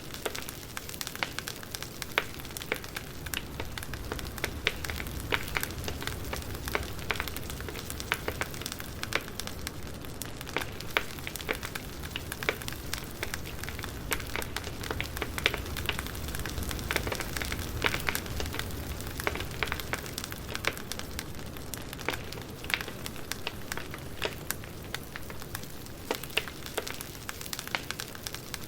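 Firewood crackling as it burns: frequent, irregular sharp snaps and pops over a steady low rumble.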